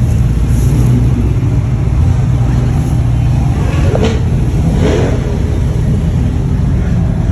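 Car engine running loudly, with two short revs about four and five seconds in.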